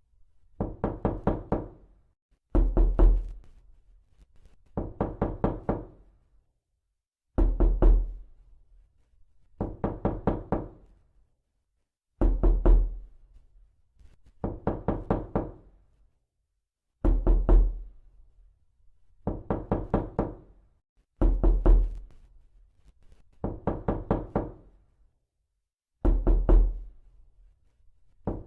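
Repeated knocking on a door in quick clusters of raps, a heavier set with a deep thump followed by a lighter set of five or six. The pattern loops every four to five seconds.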